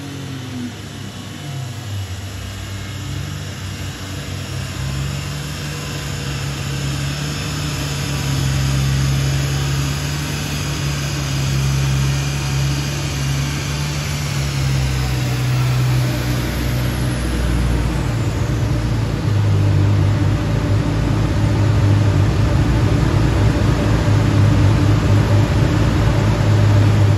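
Turbocharged BMW M50 straight-six in a 1989 E30 running hard under load on a chassis dyno, getting steadily louder as the run builds. This is the car's first dyno pull during mapping, the run that showed about 600 wheel horsepower at 1.3 bar of boost.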